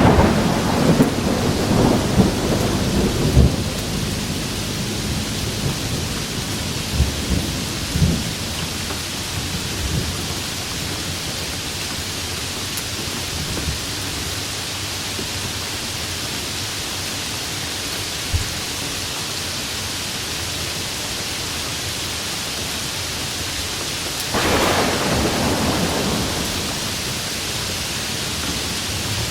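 Steady rain falling, with thunder: a rolling peal of low rumbles and cracks over the first few seconds, and a second, shorter rumble near the end.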